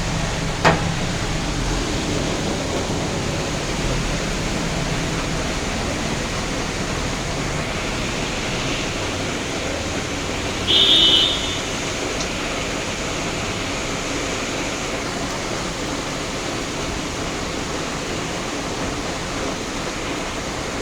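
Steady heavy rain, an even hiss. There is a sharp click about a second in, and a short high-pitched sound lasting under a second about eleven seconds in, which is the loudest thing heard.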